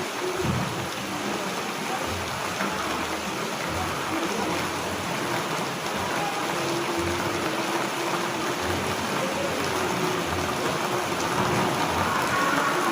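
Steady rain falling, an even continuous hiss of drops.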